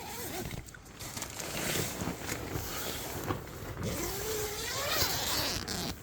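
Strong wind rushing and buffeting the microphone in uneven gusts. A short wavering tone rises and falls about four seconds in.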